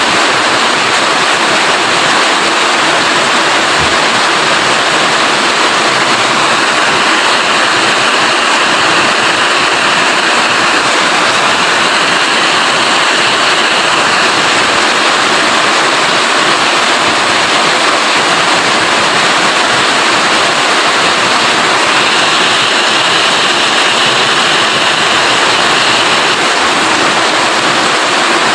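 Steady, loud rainfall: an even, unbroken rush of water with no let-up.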